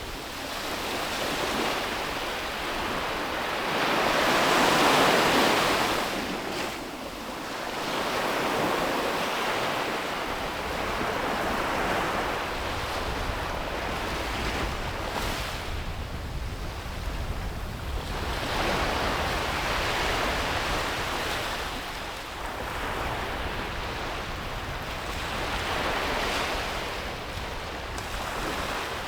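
Sea waves breaking and washing up a beach in slow, repeated surges, the biggest one about five seconds in. A low steady rumble comes in about a third of the way through.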